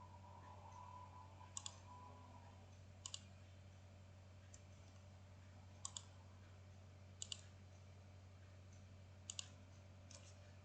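Computer mouse clicks, mostly quick double-clicks every second or two, over a faint steady low hum.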